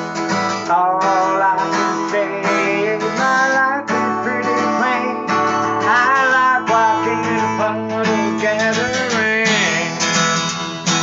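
Acoustic guitar playing a bluesy tune: chords strummed over a steady low drone, with a melody line that bends up and down in pitch.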